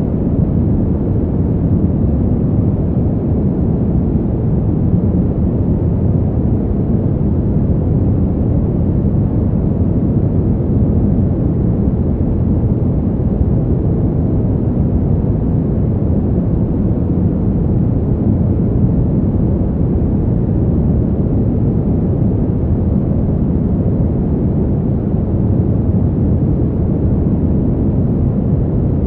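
Cold winter wind blowing as a steady, deep rush with no gusts or breaks, and little hiss.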